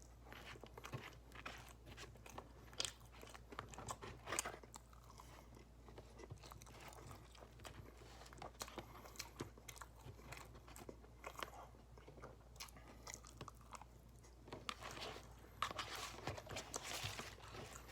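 A person chewing and biting into loaded fries with brisket, melted cheese and barbecue sauce: a run of small wet clicks and crunches from the mouth, busiest near the end.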